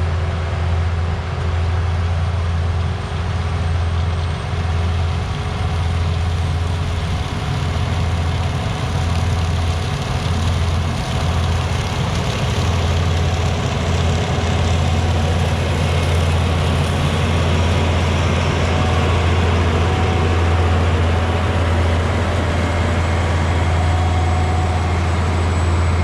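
Heavy agricultural diesel machinery running steadily, with a strong deep engine hum and a dense mechanical rushing noise that stays constant throughout.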